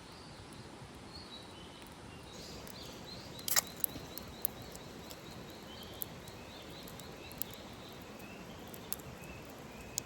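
A bird singing outdoors: a run of short high chirps, about four a second, starting about two seconds in and thinning out near the end. Several sharp clicks or taps break in at irregular moments, the loudest about three and a half seconds in.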